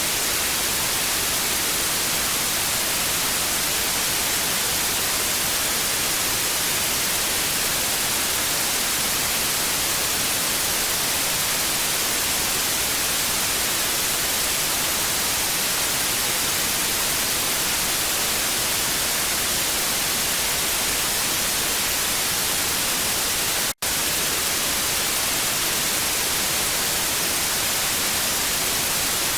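TV static: a steady, even hiss, brightest in the treble, with a momentary dropout to silence a few seconds before the end.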